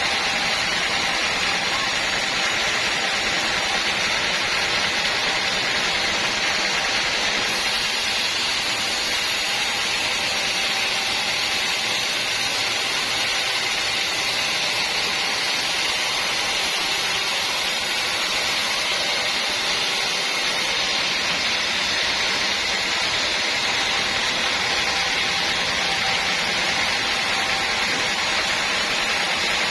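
Sawmill machinery running steadily: a constant, even noise with no breaks or changes in level.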